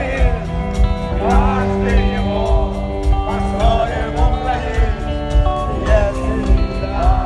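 Rock band playing an instrumental passage between verses: a steady drum beat with bass and guitars, and a gliding melodic lead line that comes back every couple of seconds.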